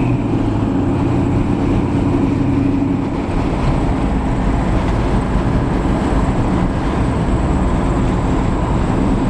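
1972 Chevy C10 pickup with a 1996 LT1 V8 under way, a steady blend of engine, exhaust and road noise heard from inside the cab.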